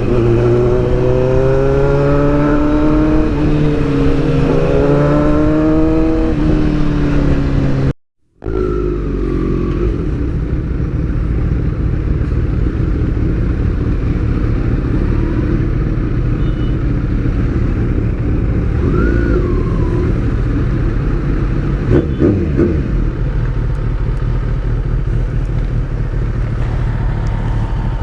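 Motorcycle engine running on the move, its pitch rising and falling with the throttle for the first several seconds. It cuts out suddenly about eight seconds in, then returns as a steadier drone.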